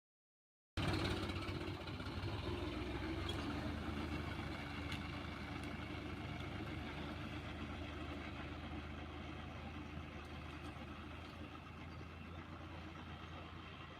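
Tractor engine running at a steady, even pace, starting about a second in and slowly growing quieter.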